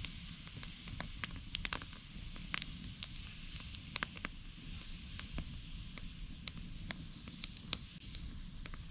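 Wood campfire crackling, with irregular sharp pops and snaps, several a second, over a steady low rumble.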